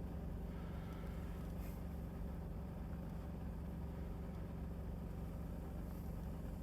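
Low steady hum of a car engine idling, heard from inside the parked car's cabin.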